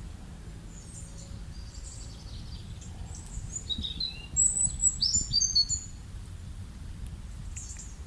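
Small birds chirping, with a louder run of quick, high chirps about halfway through, over a steady low rumble of outdoor background noise.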